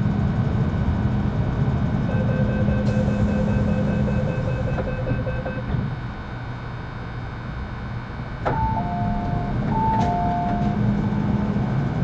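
Metro Cammell M-Train standing at a station with its doors in operation: a door warning beeping and a hiss of air about two seconds in, then a click and a two-tone chime heard twice, over the steady hum of the train's running equipment.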